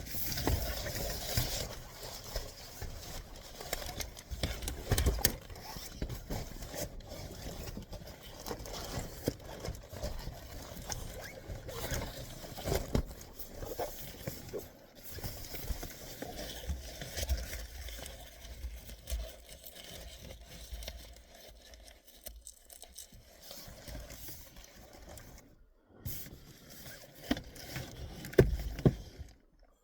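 Handling noise as a car windshield cover is taken out and refitted: irregular rustling, scraping and knocking of fabric and plastic against the car.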